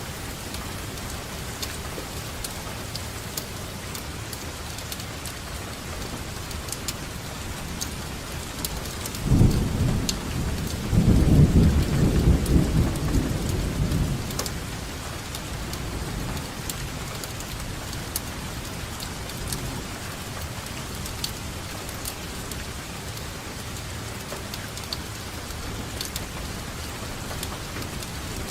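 Steady rainfall with scattered drops ticking, and a long roll of thunder that builds about nine seconds in, rumbles loudest for a few seconds and dies away; another thunder rumble begins at the very end.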